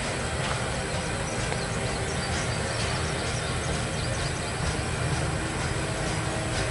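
Norfolk Southern double-stack freight train rolling across a bridge: a steady rumble of wheels on rail with faint scattered clicks.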